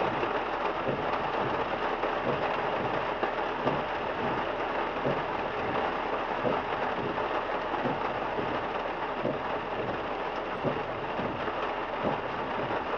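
Rain falling on a car, heard from inside: a dense, steady patter of drops with no let-up.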